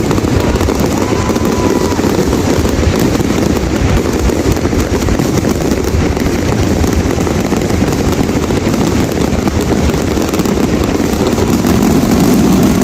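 Fireworks going off in a continuous barrage, a dense run of crackles and bangs with no pause.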